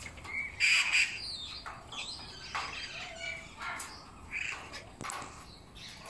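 Birds squawking and chirping in short, scattered calls.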